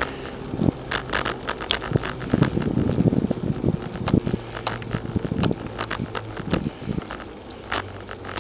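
Bicycle in motion: irregular clicks and rattles over a low steady hum.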